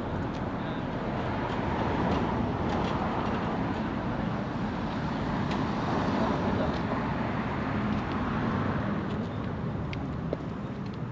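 Road traffic noise: a steady rumble that swells over the middle few seconds and eases off near the end.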